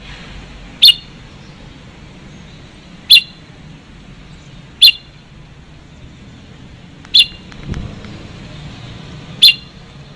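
Red-whiskered bulbul giving short, sharp calls, five in all, about two seconds apart.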